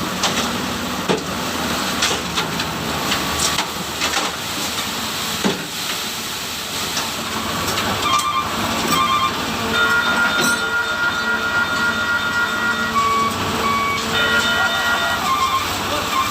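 Dump truck unloading its load of sand: a steady rushing, hissing noise with scattered knocks. About halfway through, high beeping tones join in, in a changing pattern of short and long notes.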